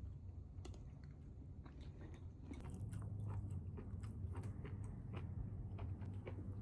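A person chewing and biting food, with many small irregular crunching clicks that thicken about halfway through, over a steady low hum.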